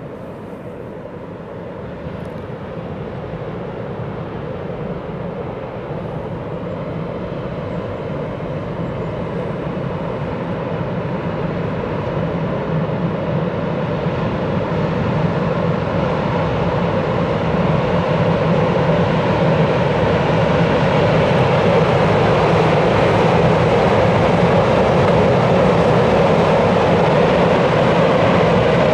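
A train approaching across a steel truss railway bridge: a steady rolling noise that grows gradually louder.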